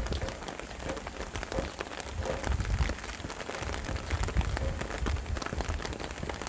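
Steady rain: a dense patter of drops, with a low rumble of wind that swells and fades in gusts.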